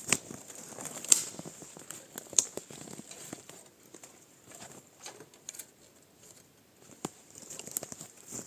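Irregular light knocks and clatter with rustling, as of materials being handled. The sharpest knocks come just after the start, about a second in and about two and a half seconds in.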